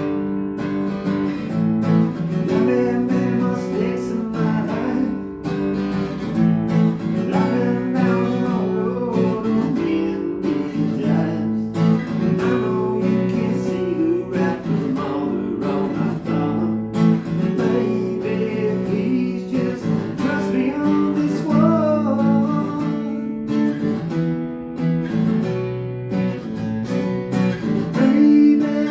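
Acoustic guitar being played, strummed chords with picked melody notes mixed in.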